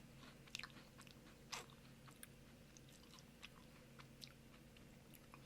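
Faint crunching as a crunchy matcha cookie is chewed: a few scattered, soft crisp crunches, the clearest about a second and a half in, over near silence.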